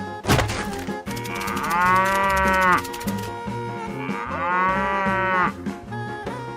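A cow mooing twice, each moo a long call that rises and falls, over background music with a steady beat.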